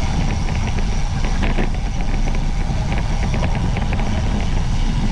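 Wind rushing over the microphone while riding a road bicycle in a race: a steady, loud low rumble with scattered faint clicks.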